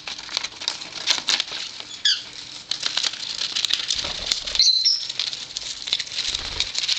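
Small parrots scrabbling over and chewing toys on a tabletop: rapid light clicks, taps and rustling. Two short chirps break through, one about two seconds in and one near five seconds.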